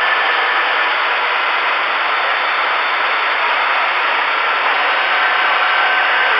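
Steady static hiss from a 10-meter radio receiver's speaker on an open channel with no station coming through, a few faint steady whistles in the noise.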